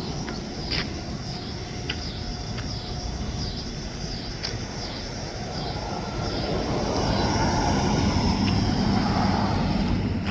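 Train rolling past: a steady rumble with a few sharp clicks in the first half, growing louder toward the end.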